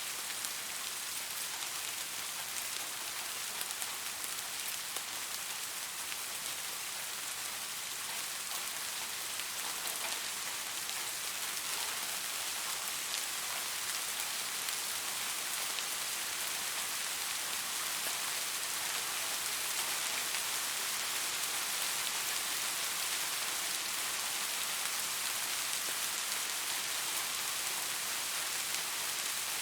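Steady rain falling, a continuous hiss of drops with fine scattered patter on a surface.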